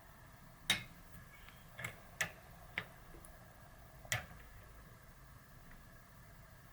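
About five sharp metallic clicks and taps at irregular intervals, the loudest about a second in: small metal tools and bicycle freehub parts being handled and knocked together while seating a sealed bearing.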